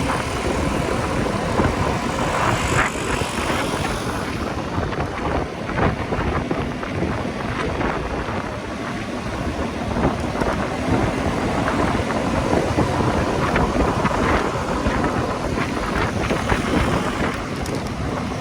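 Motorcycle riding noise: engine and road sound under heavy wind buffeting the microphone.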